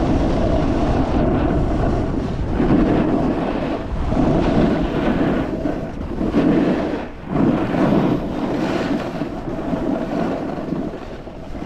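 Snowboard sliding and carving over snow, a loud rushing scrape that comes in repeated surges, with wind buffeting the microphone.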